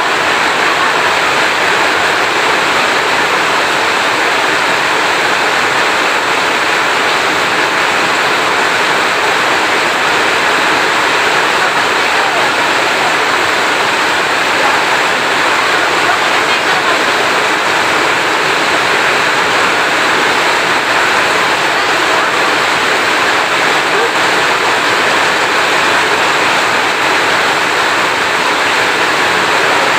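Heavy rain falling in a steady, even hiss, with no thunderclap.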